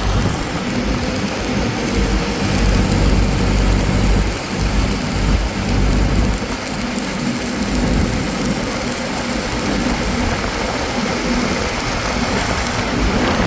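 Engine running steadily under a continuous loud hiss.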